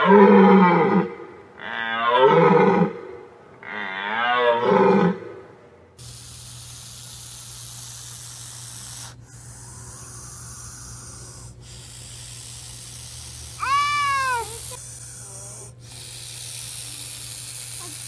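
A deer stag bellowing three times, each call about a second and a half long, rising and falling in pitch. Then, about six seconds in, a bullsnake hissing in long steady breaths with short pauses, and a brief higher call near the middle of the hissing.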